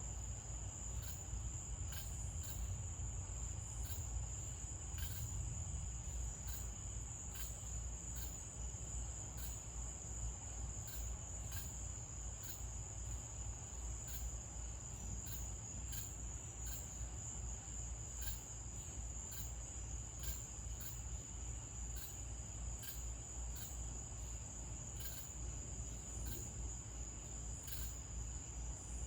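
Crickets chirring in a steady night chorus, one continuous high trill with faint ticks scattered through it and a low rumble underneath.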